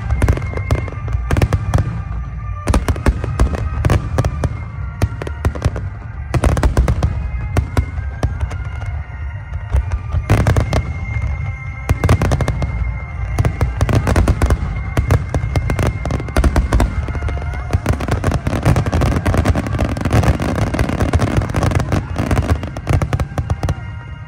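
Large aerial fireworks display: shells bursting one after another in a dense barrage of sharp booms with crackling between them, over a continuous low rumble.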